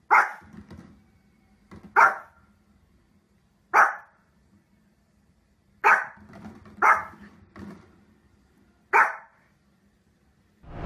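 A dog barking six times, single short barks one to two seconds apart.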